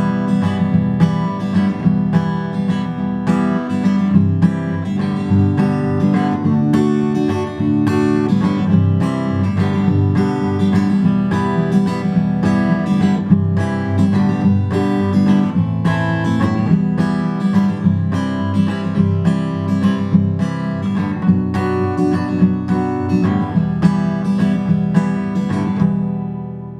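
Acoustic guitar strummed in a steady rhythm through the song's chord changes, among them C, G, D, E minor, A minor and a barred B minor. The last chord rings out and fades near the end.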